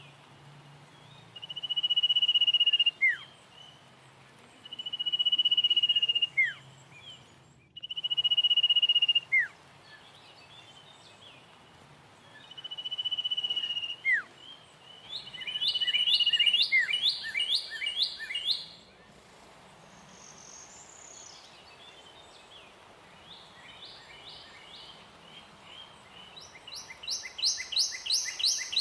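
Birds singing: a high, steady whistled note that swells and ends in a quick downward slur, repeated about every three and a half seconds, then fast stuttering trills near the middle and again toward the end.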